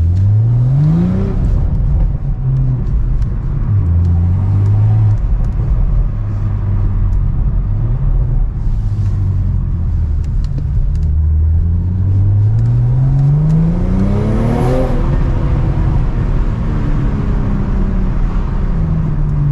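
BMW M340i's turbocharged 3.0-litre straight-six, fitted with an aftermarket downpipe, accelerating hard through the gears. Its pitch climbs, drops back at each shift, then climbs in one long pull that tops out about three quarters of the way through and falls away.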